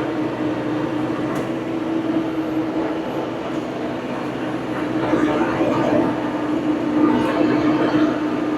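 Old farm tractor's engine running steadily at work, a constant engine note with rattle over it, a little louder in the second half.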